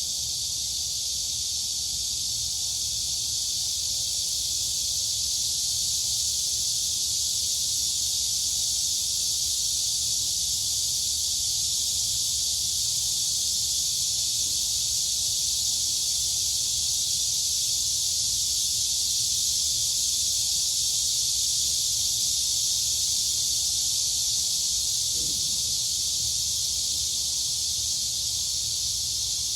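Crickets and cicadas singing in a continuous, high-pitched chorus that holds steady without a break.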